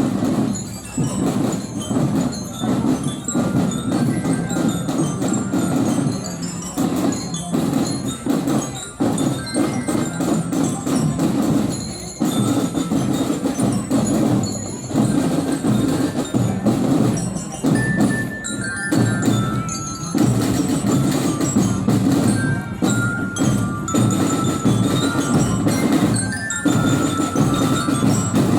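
School marching drum band playing a tune: a bright glockenspiel (bell-lyre) melody stepping over a dense beat of drums.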